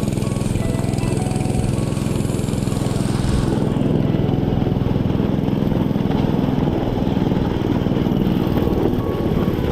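Dirt bike engine running steadily with a rough, rattling note.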